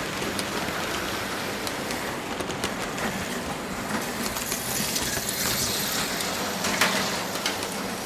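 Auto World Thunderjet HO slot cars running on plastic track: a steady whirring rattle with many small clicks. It swells and turns brighter between about five and seven seconds in, with a sharp click near the end of that stretch.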